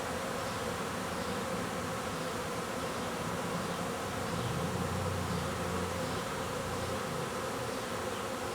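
A swarm of honeybees buzzing steadily in the air, a dense, even hum as the swarm reclusters on a branch after being shaken into a hive box.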